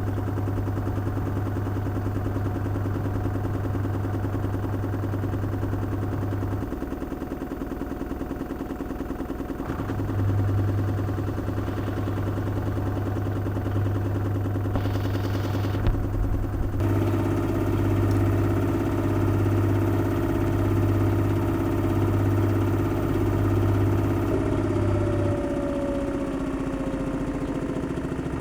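LG washing machine running with a load of wet towels: a steady low motor hum that cuts out for a few seconds twice, with a higher hum joining about halfway through and a falling whine near the end.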